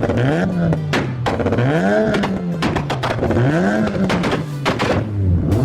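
Car engine revved repeatedly through a loud exhaust, its pitch climbing and falling back about four times, once every second and a half or so.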